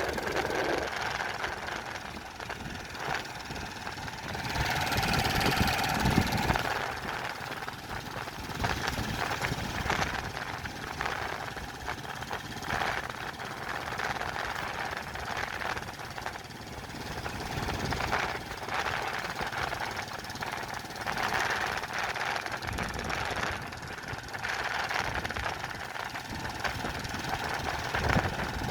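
An engine running, with irregular knocks and rattles.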